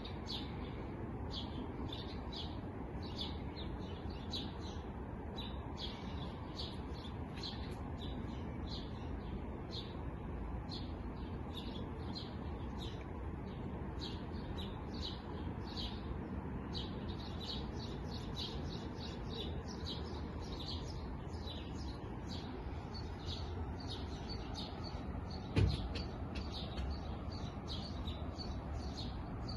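Small birds chirping in quick, repeated short notes, several overlapping, over a steady low background noise. A single thump near the end is the loudest sound.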